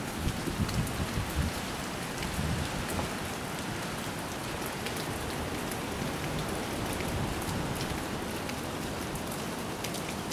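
Steady rain falling and pattering on surfaces, with scattered drop ticks; no thunder.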